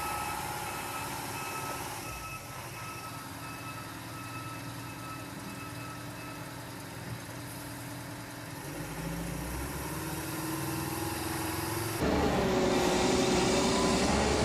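Heavy truck engine running with a reversing alarm beeping in an even pulse that fades out partway through. About twelve seconds in, the sound cuts to a louder, nearer engine.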